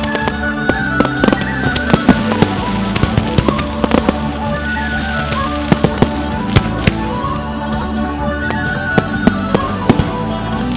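A fireworks display: many sharp bangs and crackles from bursting shells at irregular intervals, over steady accompanying music.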